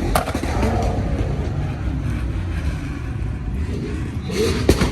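Car engine running loud with a deep, steady rumble, and a sharp pop shortly after the start and another near the end.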